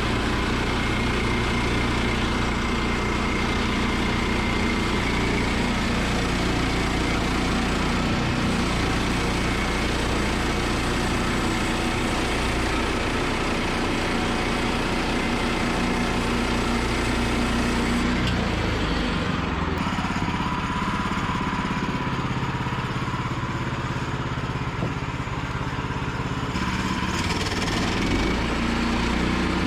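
Woodland Mills portable bandsaw mill's gas engine running steadily while the mill saws through a log. Its tone shifts about two-thirds of the way through, when the highest part of the sound drops away for several seconds, then returns.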